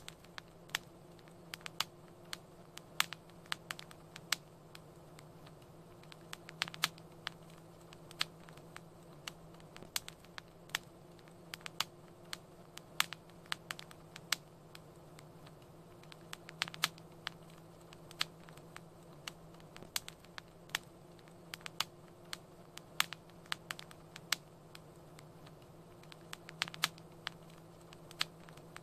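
Fireplace fire crackling: irregular sharp pops and snaps, several a second at times, over a soft hiss and a low steady hum.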